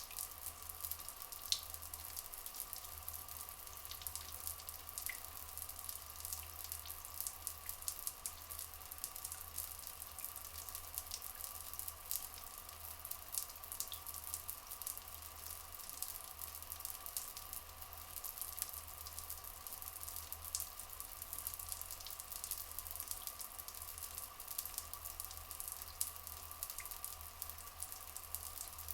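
Flowing water trickling and splashing steadily, with a dense fine crackle of droplets, over a faint steady hum.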